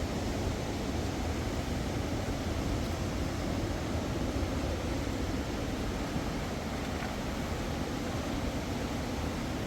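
Steady rushing of a mountain river, an even noise with no breaks or separate events.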